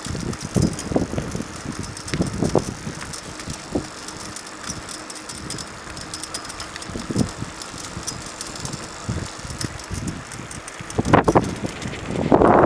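Riding a bicycle: steady rolling noise with rattles and irregular gusts of wind on the microphone, louder near the end.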